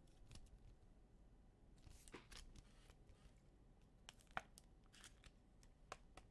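Near silence with a few faint rustles and clicks of football trading cards being handled and flipped.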